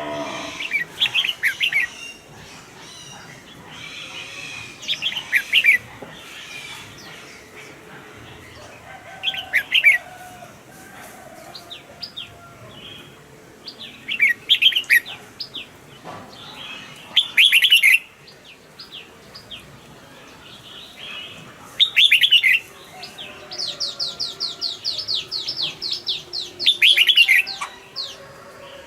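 Red-whiskered bulbul singing short, loud warbling phrases every few seconds. Near the end comes a fast run of high chipping notes.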